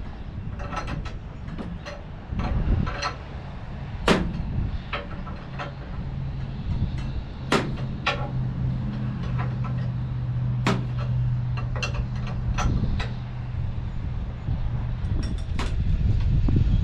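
Sharp metal clinks and knocks of wrenches and hose fittings being worked on a tractor's hydraulic lines, a few loud ones standing out among lighter taps. A steady low drone runs through the middle and fades out near the end.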